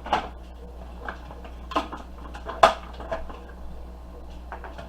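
A handful of separate sharp knocks and clatters of kitchen dishes and utensils being handled, the loudest about two and a half seconds in, over a low steady hum.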